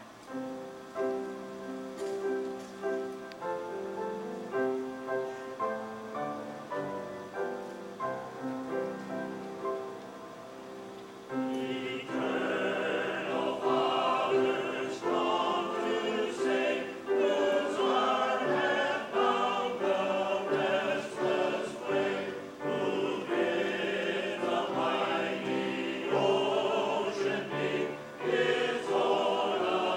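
Choir singing a hymn: a softer passage of held chords, then about eleven seconds in the full choir comes in louder and fuller.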